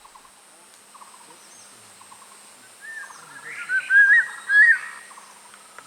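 Birds chirping over a faint forest background; about three seconds in, a bird sings a louder warbling phrase that peaks twice.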